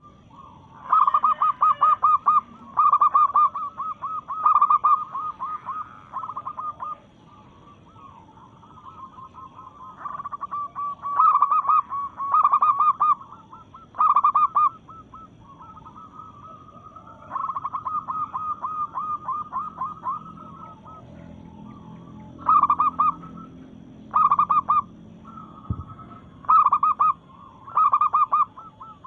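Female zebra dove (perkutut) calling: repeated bursts of rapid, staccato cooing notes, each burst a second or two long, with pauses between.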